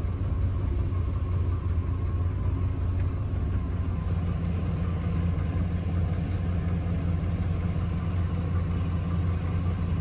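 1979 Chrysler 300's E58 360 cubic-inch four-barrel V8 idling steadily after a cold start, a low even rumble.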